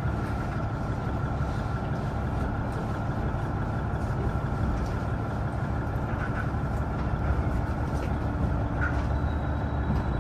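Steady low rumble of a train, with a faint high hum held underneath.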